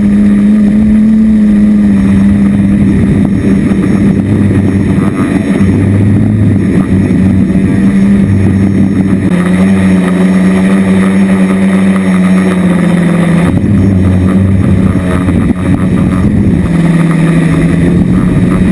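Quadcopter's four brushless motors and 10x5 propellers making a loud, steady droning hum, recorded from the drone's own onboard camera. The pitch dips a few times as the flight controller changes motor speeds. Wind buffets the microphone under the hum.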